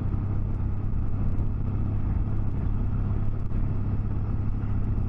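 Motorcycle on the move at a steady speed: an even, unchanging engine drone under a haze of wind and road noise.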